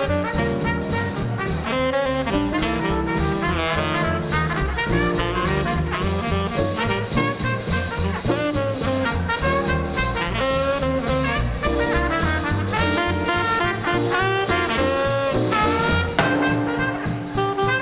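Small-group swing jazz band playing live: trumpet and saxophone play melody lines over piano, string bass and drums.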